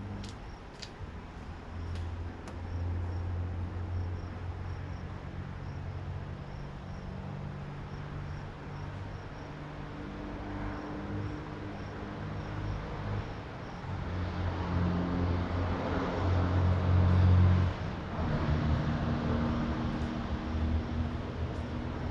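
A motor vehicle's engine running with a low rumble, growing louder past the middle and peaking shortly before dropping back.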